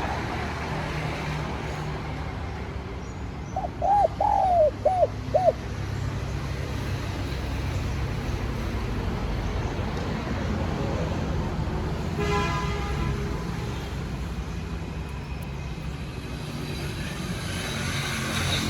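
Spotted dove cooing: one loud phrase of about five coos about four seconds in, over a steady low rumble. About twelve seconds in there is a short buzzy sound with many overtones.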